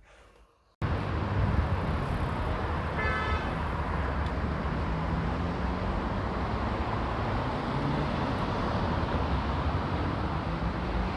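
Steady road traffic noise that starts abruptly under a second in, with a short high-pitched tone about three seconds in.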